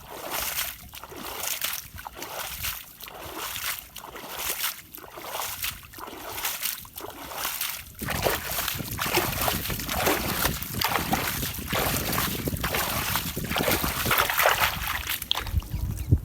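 Water splashing and sloshing in a regular rhythm, about once a second, turning into denser, continuous splashing from about halfway through.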